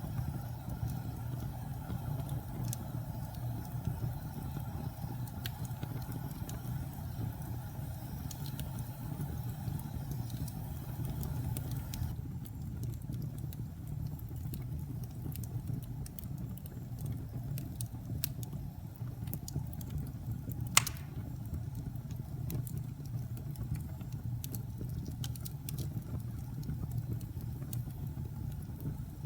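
Wood fire burning in a fireplace: a steady low rumble with scattered crackles and one sharp, loud pop about twenty seconds in. The higher hiss drops away about twelve seconds in.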